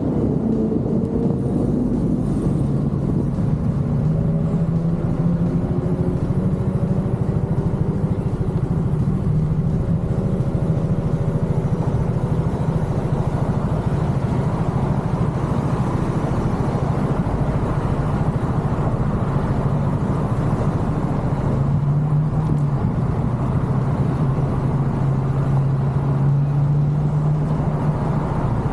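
Genuine Buddy 170i scooter's single-cylinder four-stroke engine running steadily under way, its pitch rising and dipping a little with speed, over an even rush of wind and road noise.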